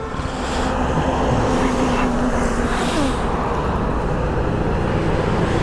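Triumph Tiger motorcycle under way: engine and wind rush on the rider's microphone, building over the first second and then holding steady.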